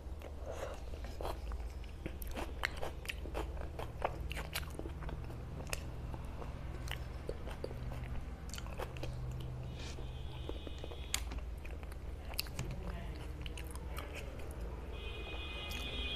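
Close-miked mouth sounds of eating pav bhaji: wet chewing with frequent sharp lip smacks and clicks, over a low steady hum. A brief high-pitched tone sounds twice, about ten seconds in and again near the end.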